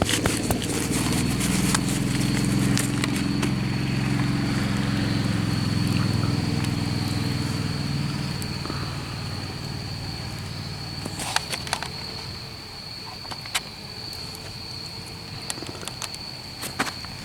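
A motor's low hum, loudest in the first few seconds and fading away by about nine seconds in, over a steady high-pitched insect drone. A few light clicks and rustles come later.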